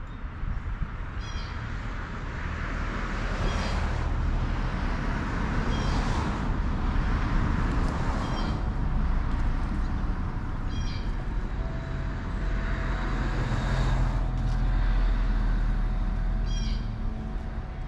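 Background rumble of road traffic that swells and fades, with a small bird giving short chirps every two to three seconds.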